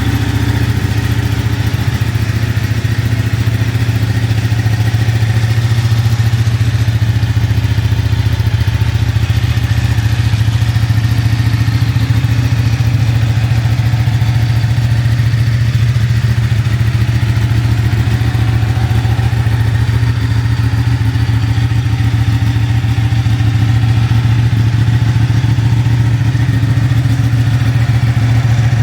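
Ducati 899 Panigale's 898 cc Superquadro V-twin engine idling steadily, with no revving.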